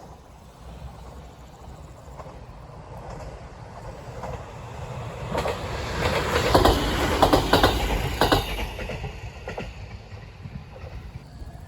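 A train approaching and passing close by, its wheels clattering over the rail joints. The sound builds up, is loudest about two-thirds of the way through with a run of sharp clacks, then eases off.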